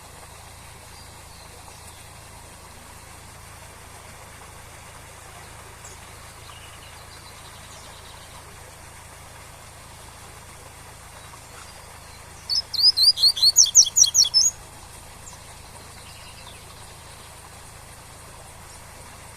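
Double-collared seedeater (coleiro) singing one quick 'tui-tui' phrase of about ten sharp, sweeping whistled notes a little past halfway through, over a steady waterfall rush, with a few faint chirps at other times.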